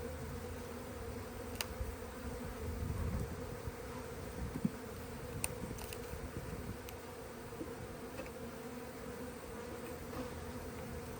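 Honey bees buzzing steadily around an open hive, a continuous hum. A few sharp clicks sound through it.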